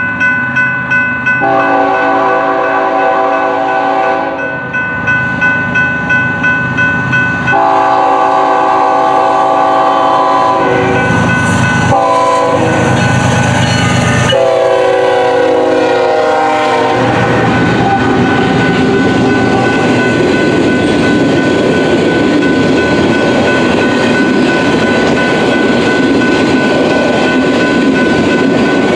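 Grade-crossing bell ringing rapidly while a BNSF freight locomotive's multi-chime air horn sounds three long blasts for the crossing. The autorack train then rushes past at speed, its steel wheels rumbling and clicking over the rails and crossing.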